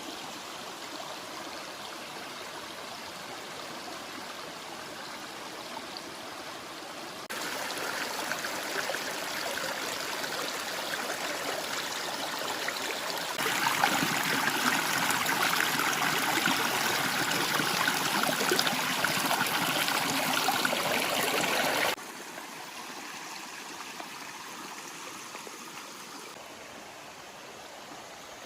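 Waterfall: steady rushing and splashing water. It gets louder in two sudden steps, about seven and about thirteen seconds in, then drops back sharply about twenty-two seconds in.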